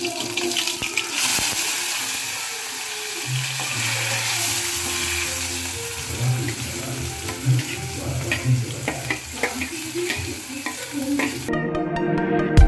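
Chopped onion and tomato sizzling and spitting as they hit hot oil in a steel kadhai, the start of frying a masala base. A steel ladle stirs and clinks against the pan. The sizzle cuts off near the end as music comes in.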